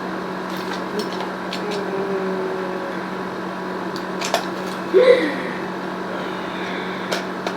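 A cutter opening a snack package, with scattered short clicks and handling noises and a louder crackle about five seconds in. Under it runs a steady low electrical hum.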